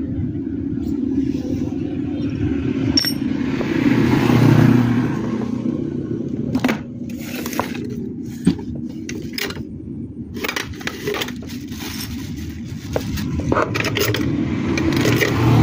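Metal clinks, taps and scrapes from handling the standing-fan motor parts and tools: sharp, irregular clicks that come thick in the second half, over a steady low rumble.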